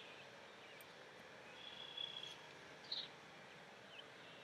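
Quiet outdoor ambience with faint bird chirps: one short held high note about two seconds in and a brief chirp about a second later.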